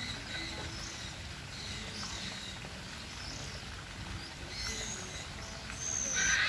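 Outdoor ambience with faint, scattered bird chirps. About six seconds in comes a louder, high-pitched bird call.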